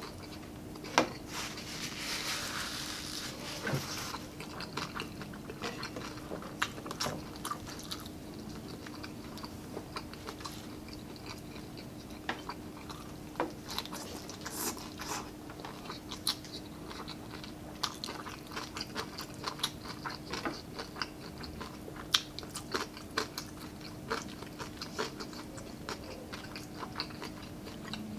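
Close-miked eating sounds: chewing and crunching crispy fried pork and stir-fried cabbage, with many sharp mouth clicks and smacks. A faint steady hum runs underneath.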